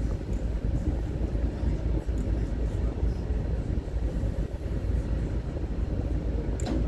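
A steady low rumble, with a brief click near the end.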